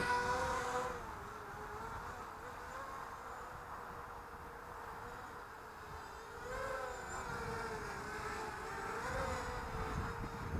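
ZMR250 mini racing quadcopter's motors and propellers buzzing, the pitch wavering up and down with throttle; loudest at the start, fading, then swelling again about six and a half seconds in. Wind rumbles on the microphone underneath.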